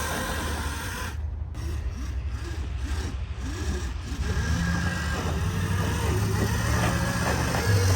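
Dirt bike on snow: a steady rubbing, scraping noise with a low hum that grows stronger about halfway through.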